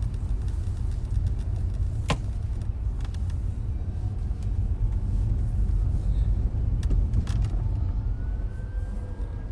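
Car road noise heard inside the cabin: a steady low rumble of the car moving in traffic, with a couple of sharp clicks.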